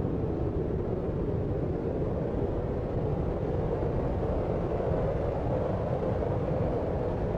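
Steady deep noise for sleep, like brown noise: an even, unbroken rumbling hiss with most of its weight in the low end and little treble, without any distinct events.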